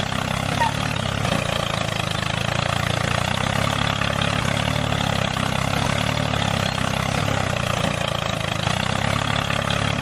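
Small motor running steadily at an even speed.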